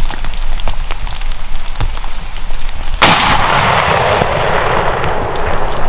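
A single shotgun blast about three seconds in, fired at a turkey, with its echo rolling away over the next couple of seconds.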